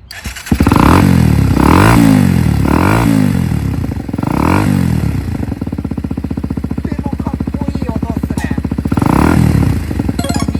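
Honda CBX125F's air-cooled single-cylinder four-valve RFVC engine, breathing through a stock twin-outlet muffler, starts up about half a second in. It is given four quick throttle blips, then settles to a steady idle, with one more blip near the end.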